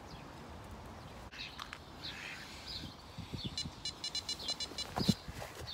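Small birds chirping and calling, with a fast run of short repeated notes about halfway through. A few low knocks, the loudest one a second before the end.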